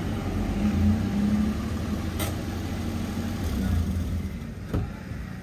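A car engine running with road noise, a steady low hum that swells and eases a little. There is a short knock near the end.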